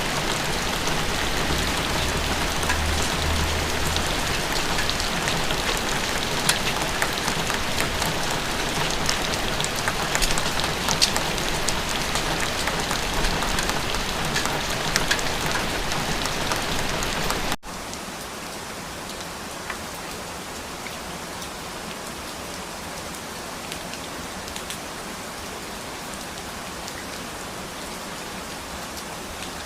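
Steady rain falling, with scattered individual drops ticking through it. About seventeen seconds in it cuts abruptly to quieter, softer rain, a splice between two rain recordings.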